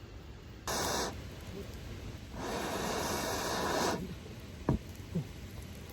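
Two bursts of hissing, rushing noise: a short one under a second in, then a longer one lasting about a second and a half.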